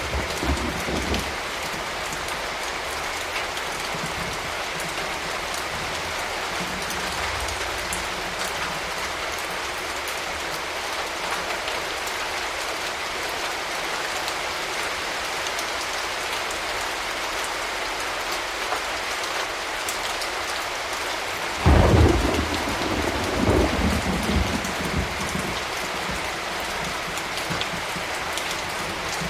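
Steady rain falling. About three-quarters of the way through, a sudden loud thunderclap rumbles on for a few seconds in several swells, and a lighter rumble comes right at the start.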